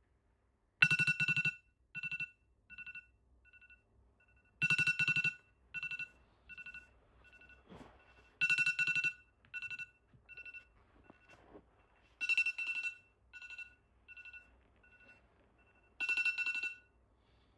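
Telephone-style trilling ringtone, a two-tone ring sounding five times about every four seconds, each ring followed by quickly fading echoes.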